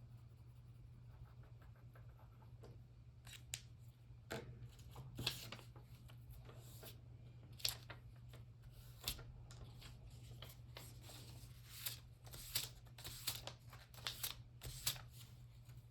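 Paper being handled and cut at a craft table: a dozen or so short, irregular crisp strokes and snips, starting about three seconds in.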